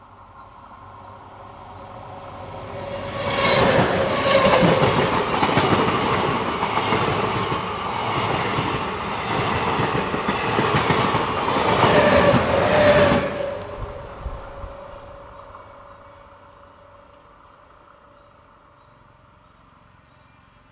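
A train passes at speed: it builds up over the first few seconds, passes loudly for about nine seconds with the clatter of its wheels on the rails, then fades away.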